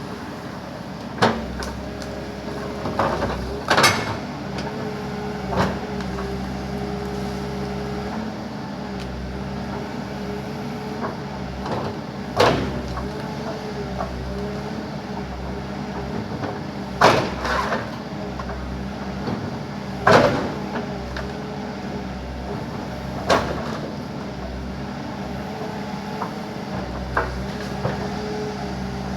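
Backhoe's diesel engine running steadily, with a sharp knock every few seconds, about seven in all, as the machine works on trees.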